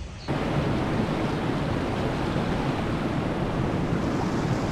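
Fast-flowing snowmelt water rushing steadily, cutting in suddenly just after the start.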